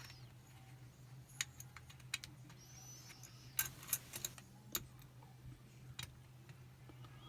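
Small metallic clicks and a short scrape from lock-picking tools, a tension tool and picking wire, working inside a Chubb Detector lever lock while trying to throw the bolt. The clicks come singly at first, then in a quick cluster about halfway through, over a steady low hum.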